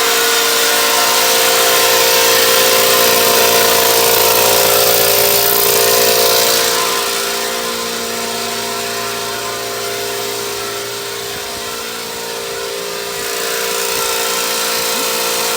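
A loud machine running steadily in the shop with a droning hum and hiss. It eases a little about halfway through, then picks back up near the end.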